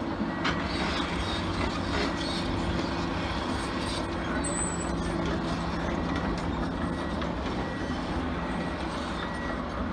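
Komatsu PC400LC hydraulic excavator's diesel engine running steadily under load as it lifts a chunk of concrete rubble weighing several tonnes.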